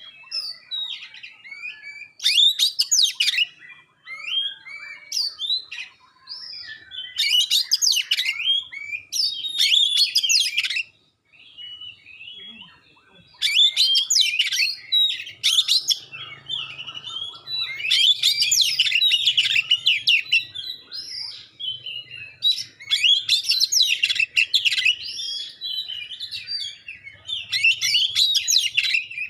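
Oriental magpie-robin (kacer) singing: about eight loud, rapid bursts of sharp, varied whistled notes, each lasting a second or two, with softer twittering between them. These are the sharp 'tembakan' bursts prized by kacer keepers.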